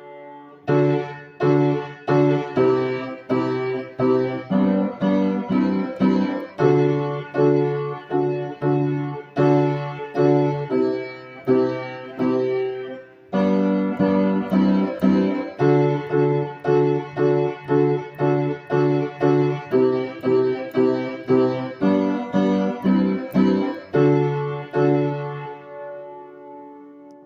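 Piano-sounding keyboard playing struck chords over a low bass note at a steady, even pace, each chord dying away. There is a short break about halfway through, and the playing fades out near the end.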